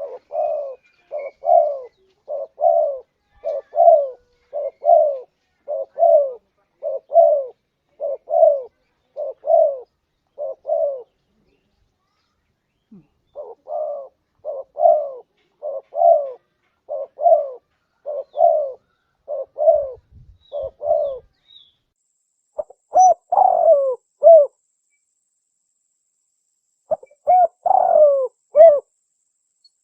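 Spotted dove (tekukur) cooing: long runs of short falling coos repeated about three every two seconds. The coos break off twice, and the notes near the end come louder in quicker clusters.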